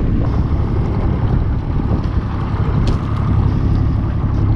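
Wind buffeting the microphone on an open small boat, a steady loud low rumble with a couple of faint ticks.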